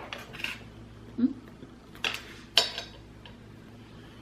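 Chopsticks clicking and clattering against a dish a few times while sushi is eaten, with short sharp clicks about two seconds in and again half a second later.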